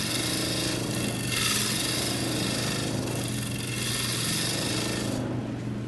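Turning gouge cutting the outside curve of a wooden bowl on a running lathe: a hissing, shaving noise in several passes of a second or two each, over the lathe motor's steady hum. The cutting stops shortly before the end while the lathe keeps spinning.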